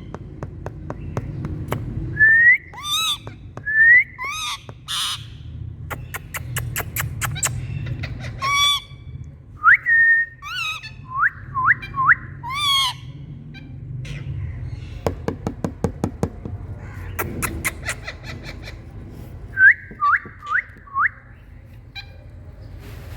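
Indian green parrots calling: many short, shrill, rising calls, often several in quick succession, with one harsher screech about five seconds in. Runs of rapid even clicking come between the calls, over a steady low hum.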